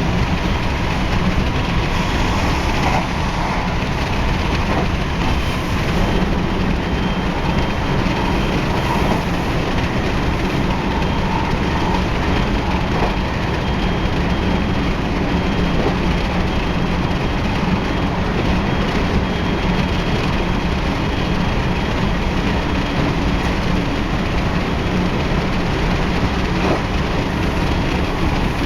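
JR West 223 series 0 electric multiple unit running steadily at speed: continuous rumble of wheels on rail, with faint steady motor and inverter tones and some rail-joint clatter.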